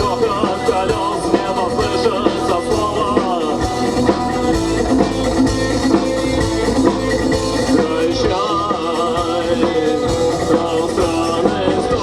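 A rock band playing live, with a drum kit keeping a steady beat under sustained pitched instrument lines.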